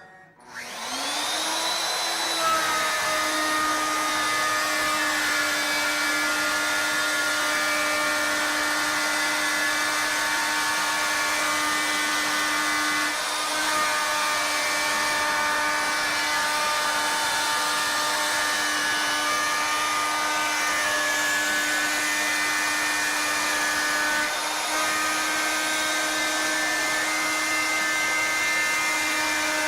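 CNC router motor with a 1/2-inch two-flute straight cutter spinning up with a rising whine, then running at a steady pitch as the machine cuts the hollow spiral in the wood, with small changes in tone about 13 and 24 seconds in.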